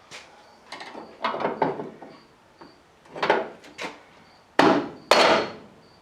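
About six sharp metal knocks and clanks as a screwdriver and pliers are worked against a seized door hinge pin on a GMC squarebody truck, trying to break it loose; the two loudest knocks come close together near the end.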